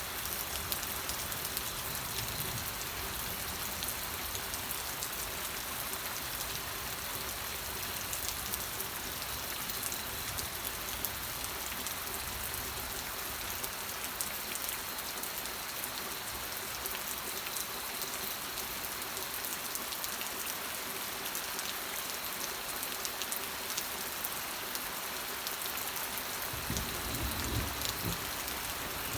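Steady rain falling on a surface, a dense patter of many individual drops. A brief low rumble comes through near the end.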